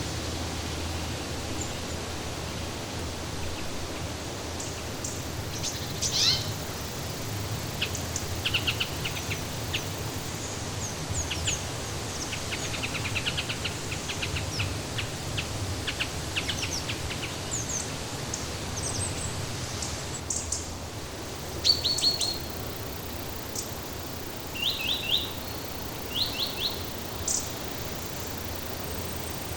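Songbirds chirping and calling in short, high trills and chips, starting about six seconds in, over a steady background hiss.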